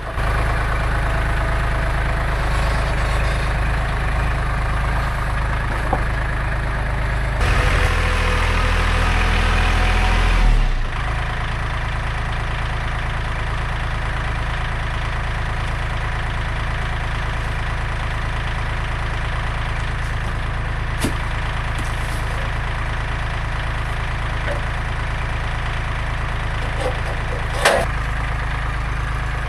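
An engine running steadily at idle. It grows louder for about three seconds roughly a quarter of the way in, then settles back. There is a single sharp knock near the end.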